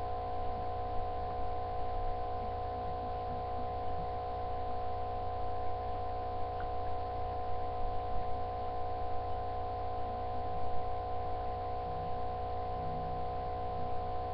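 A steady background hum of several fixed pitches over a low drone, unchanging throughout, with a few faint ticks.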